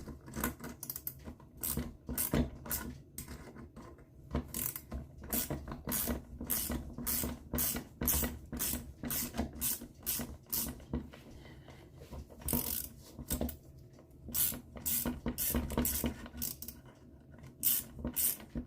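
A bearing puller being worked to draw a 6201 ball bearing out of an NSU Quickly two-speed engine: a long run of irregular metal clicks and scrapes, about two a second, with brief pauses.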